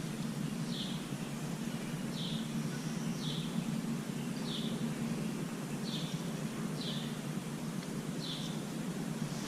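A bird calling with short, high, falling chirps, about seven of them roughly once a second, over a steady low background hum.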